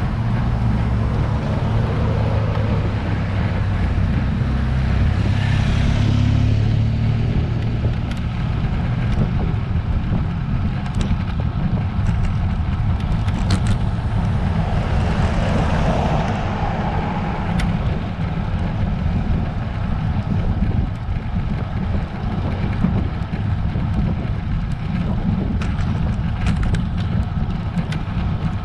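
Wind rumble on a bike-mounted action camera's microphone with road noise while riding a road bike, with a louder rushing swell about six seconds in and again around sixteen seconds, and scattered sharp clicks.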